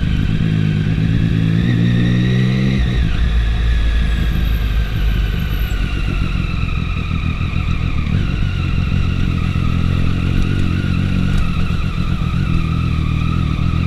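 Triumph 675 inline three-cylinder motorcycle engine under way: revs climb for about three seconds, drop sharply, then it runs fairly steadily at cruising speed, with a higher whine rising and falling along with it.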